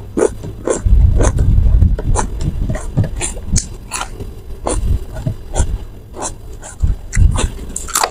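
Close-miked chewing of crunchy raw cucumber: irregular wet crunches and mouth smacks, several a second, with a low rumble of chewing in between.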